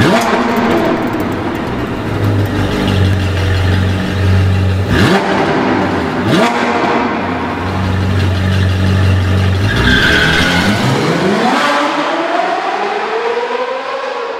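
Sports car engine running and revving, with two sharp hits partway through and a long rising rev over the last few seconds.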